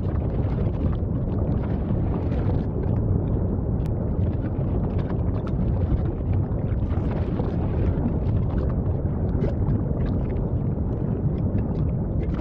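Volcanic eruption giving a steady, deep rumbling roar, with wind buffeting the microphone.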